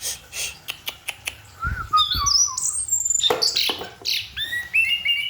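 Orange-headed thrush singing a fast, varied song of whistled phrases with rising and falling notes, starting about two seconds in. A few sharp clicks and two low thumps come before the song.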